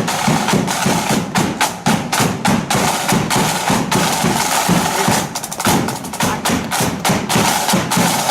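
Marching flute band playing, with snare drums beating sharp rapid strokes and a bass drum underneath, and a quick snare roll about five seconds in.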